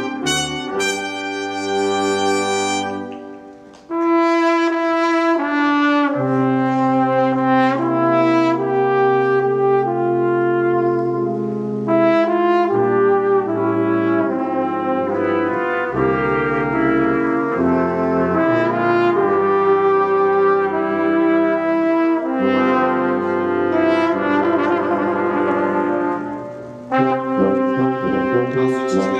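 Brass quintet of trumpets, French horn, trombone and tuba playing in full harmony. A chord fades away about three seconds in and the full ensemble comes back in loudly a second later; the sound drops briefly again near the end before they resume.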